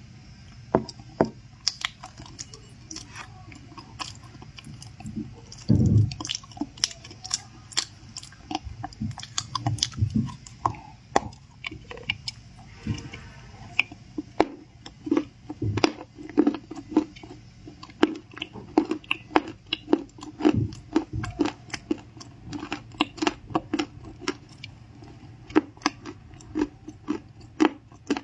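Chewing crunchy stuffed cookies: a continuous run of sharp crunches and clicks, with a few heavier bites.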